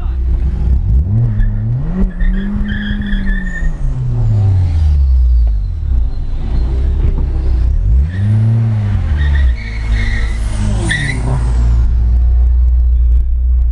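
Car engines revving hard, the pitch sweeping up and back down twice, about a second in and again about eight seconds in, over a steady low engine rumble.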